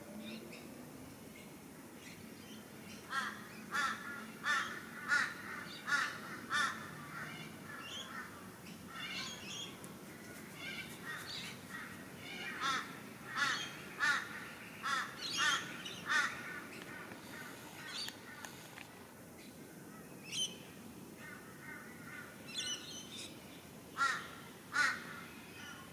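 A bird calling repeatedly, in runs of several calls at about two a second, with pauses between the runs.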